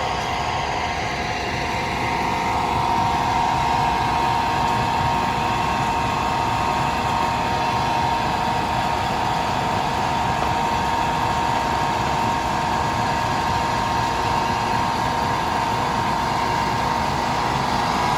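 Heavy machinery at a rock-crushing site running steadily, a continuous mechanical din with a constant whine.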